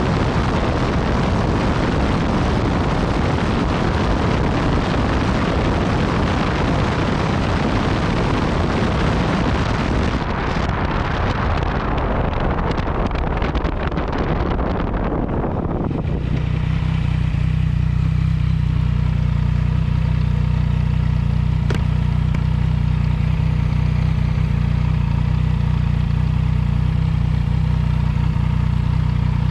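Yamaha MT-09 Tracer's three-cylinder engine through an Akrapovic exhaust, first heard under way with heavy wind rush over the microphone. The rush fades from about ten seconds in as the bike slows, and from about sixteen seconds in the engine idles steadily with a low, even note.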